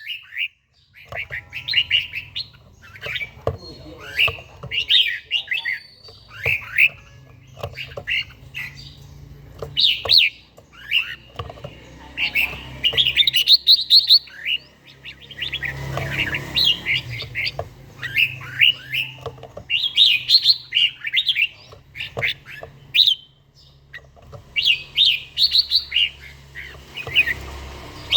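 Red-whiskered bulbul singing: short, bright warbling phrases repeated every second or two, with brief pauses between them.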